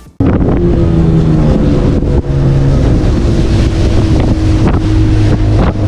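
Speedboat engine running steadily at speed, with wind blowing on the microphone.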